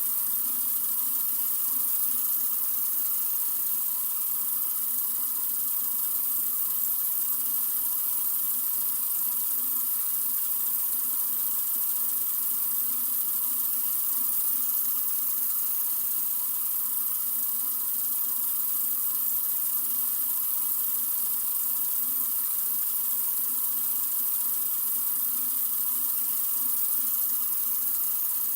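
Water running steadily from a sink faucet: an even, unbroken hiss, brightest in the treble.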